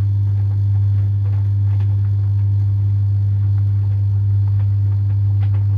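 Samsung DV80M5010IW heat pump tumble dryer running with its heat pump on, a loud, steady deep hum.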